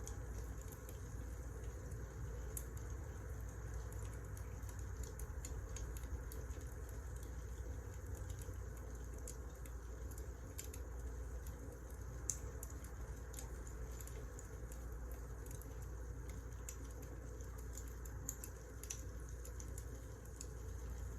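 Wood fire crackling: a steady low rumble with scattered small crackles and pops, and one sharper pop about twelve seconds in.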